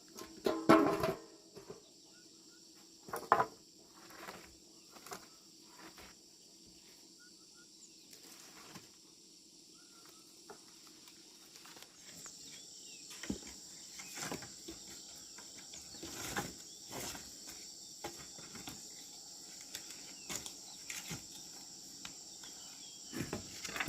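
Insects chirring steadily, growing louder about halfway through, with scattered knocks and clatters of handling; two louder clatters come in the first few seconds.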